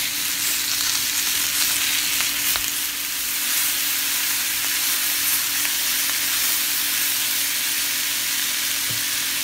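Curry-seasoned chicken pieces with onions and peppers sizzling steadily in butter in a hot skillet, stirred with a silicone spatula.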